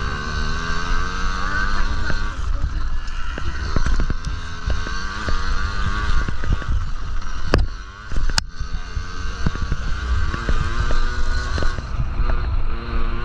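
Several Yamaha PW50 mini dirt bikes' small single-cylinder two-stroke engines running at once. Their pitches rise and fall as the riders open and close the throttle around the track. Two sharp clicks come a little past the middle.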